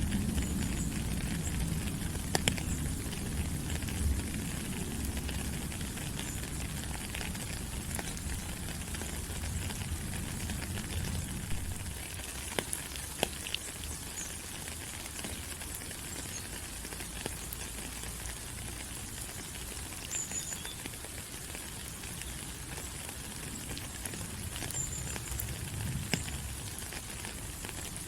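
Steady rain falling on rainforest leaves, with scattered louder drips. A low rumble under the rain fades out about twelve seconds in.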